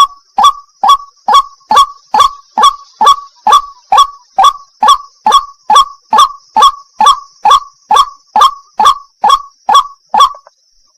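White-breasted waterhen giving its 'wak wak' call: one loud note repeated at an even pace of about two a second, stopping shortly before the end.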